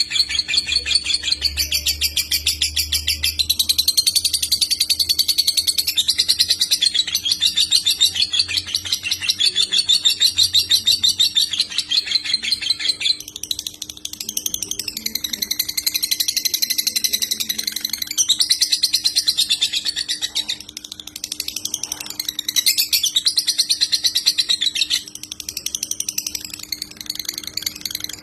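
White-rumped shama (murai batu) singing without pause, in very fast, rapid-fire trilled phrases ('tembakan') that change every few seconds, high-pitched and loud.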